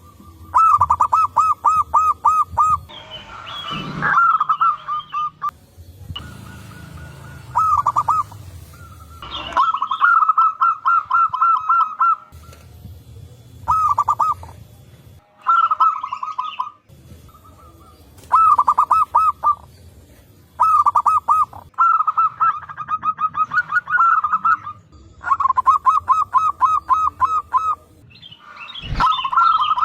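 Zebra doves (perkutut) singing: phrase after phrase of quick staccato cooing notes, fast even runs separated by short pauses.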